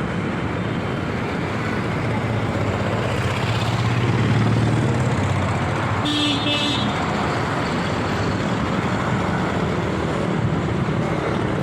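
Steady road traffic noise with a louder low rumble of a passing vehicle around four seconds in, then a brief pitched toot like a horn about six seconds in.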